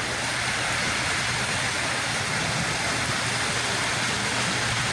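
Sea waves washing on the shore, a steady, even rush of surf.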